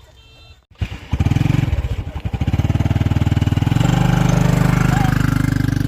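Small engine starting up about a second in, running unevenly at first and then settling into a steady, fast-firing run.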